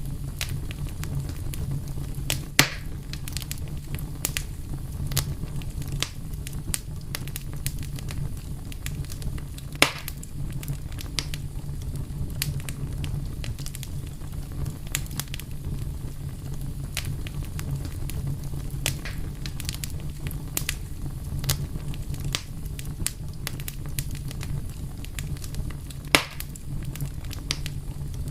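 Fire crackling: a steady low rumble with frequent small, sharp crackles and three louder pops, the first about two and a half seconds in, another near ten seconds and the last near the end.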